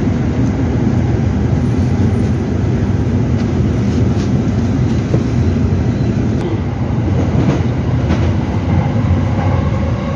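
Commuter train running, heard from inside the passenger car: a steady, loud low rumble of wheels on the track and car body noise.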